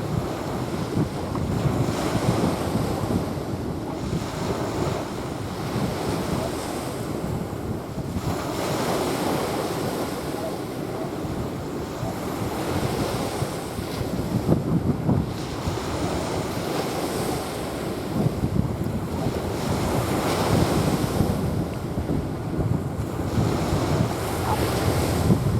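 Small sea waves washing onto a sandy beach, swelling and falling back every two or three seconds, with wind buffeting the microphone.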